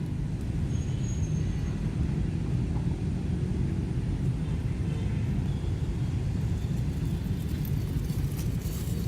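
Steady low rumble of outdoor background noise, with a faint high whistle about a second in and a few faint clicks near the end.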